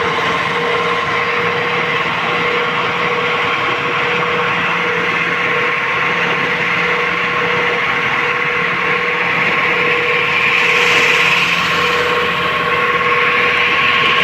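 Backhoe loader's diesel engine running steadily with a steady whine. It gets a little louder and brighter about ten seconds in.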